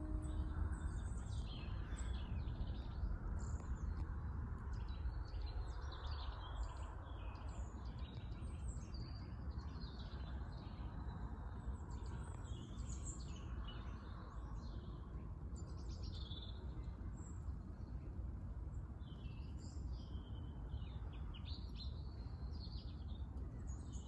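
Small garden birds chirping and calling, many short high notes coming thick and fast, over a steady low background rumble.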